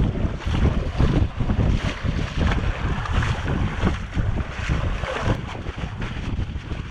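Strong wind buffeting the microphone in uneven gusts, over the wash of choppy water around a sea kayak.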